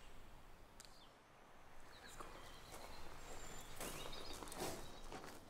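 Faint outdoor ambience with scattered soft clicks, swelling into a brief rustle about four seconds in.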